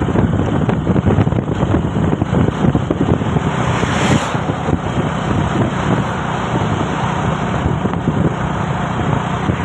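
Cargo truck on the move: steady engine and road noise with wind buffeting the microphone, and a brief hiss about four seconds in.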